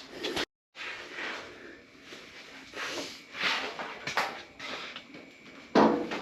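Sheet-metal handling noise as a loose quarter panel skin is moved and held against the car body: scattered scrapes, rustles and light metallic knocks, with a louder clatter near the end.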